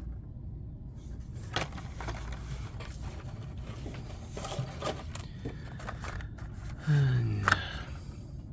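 Hot Wheels blister-card packages being handled, with scattered small clicks and rustling over a low steady hum. About seven seconds in comes a short, louder voice-like sound that falls in pitch.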